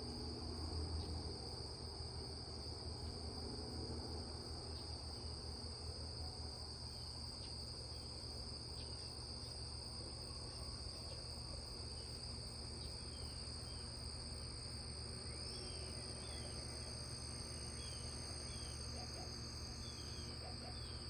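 Crickets chirping in a continuous, steady high trill, with a few faint short bird chirps in the second half, over a low steady rumble.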